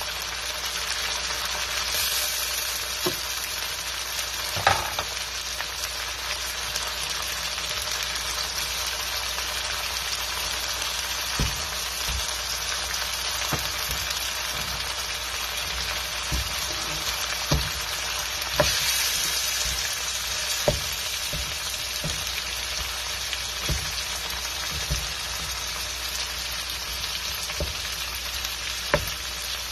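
Corned beef and sliced red onions sizzling steadily in a hot steel wok. From about a third of the way in, a wooden spatula knocks and scrapes against the wok every second or two as the block of meat is broken up and stirred.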